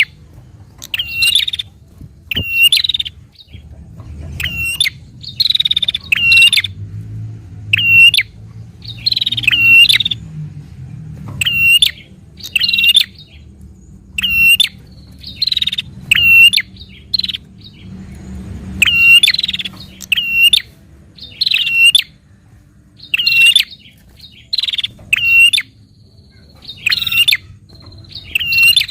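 Prinia (prenjak) calling over and over in rapid chattering phrases: short, sharp, high chirps with a quick dipping note, about one call a second.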